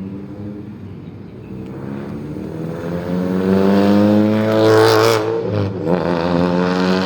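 A car drives close past with its engine running: the engine grows louder as it approaches and its pitch drops as it goes by, about five and a half seconds in. Engine sound then carries on afterwards.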